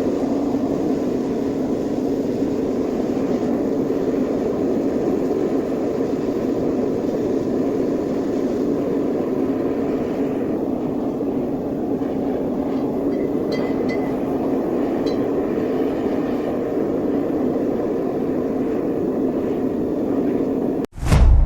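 Steady low rumble with a droning hum. Near the end it cuts off suddenly, and a loud boom follows and dies away.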